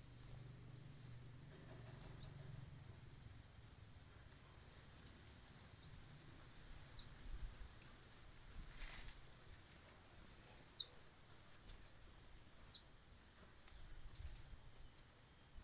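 A bird calling faintly: short chirps that fall in pitch, repeated every one to two seconds, over a steady high-pitched drone.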